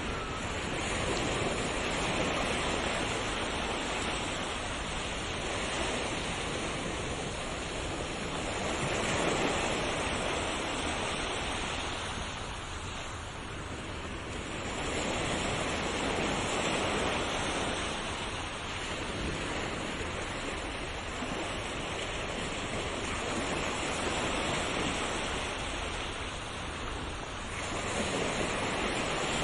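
Sea waves: a continuous hiss of surf that swells and falls back every several seconds.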